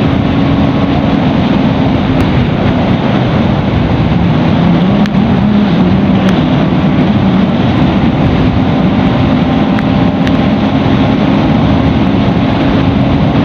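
Bajaj Pulsar NS200's single-cylinder engine running at road speed under heavy wind rush on the rider's microphone. The engine note drops for a couple of seconds about five seconds in, then climbs back.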